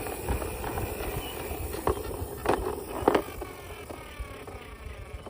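Toys being handled: scattered clicks and rustling, with a few sharper knocks near the middle.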